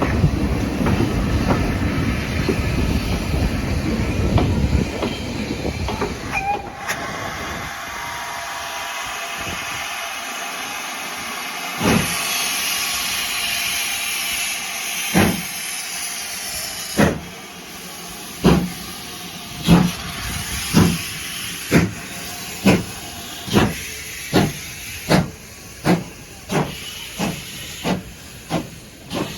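Steam locomotive: a low rolling rumble of the train, then steam hissing, and from about halfway through the engine starts away with exhaust chuffs that gradually quicken.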